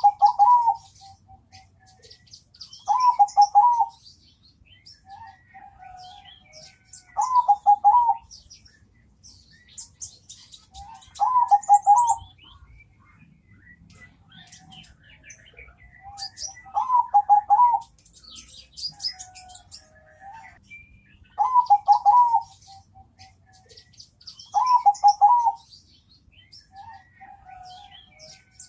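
Zebra dove (perkutut) singing a thick-voiced, rolling coo phrase, repeated about every four seconds. Softer, high chirps of small birds are heard between the phrases.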